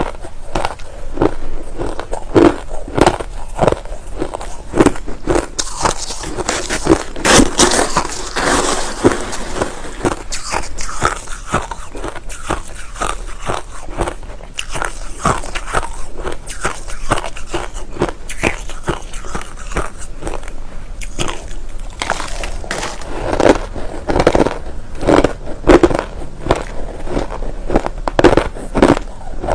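Close-miked chewing of white crushed ice: rapid, repeated crunches throughout, with a denser, brighter spell of crunching between about six and ten seconds in.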